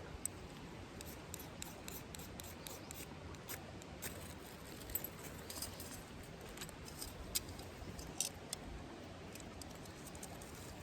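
Small wood campfire crackling: irregular sharp pops and snaps, a few louder ones, over a steady low hiss.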